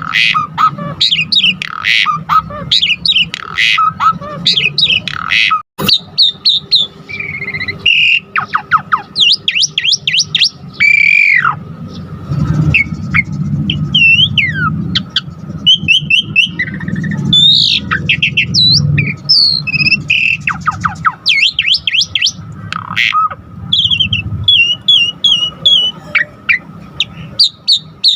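Jalak suren (pied starling) singing a long, varied song of whistles, rising and falling slurred notes and quick chattering series, packed with fill-in phrases.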